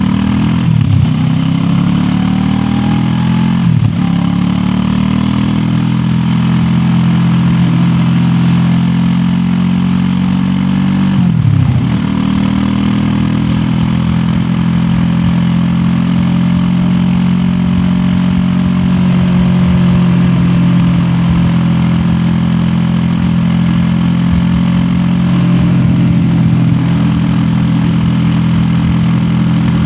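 QJ Motor SRT 700X's parallel-twin engine running under way, heard from the rider's backpack. Its pitch dips sharply and climbs back about one, four and eleven seconds in, then holds a fairly steady cruise with slow rises and falls.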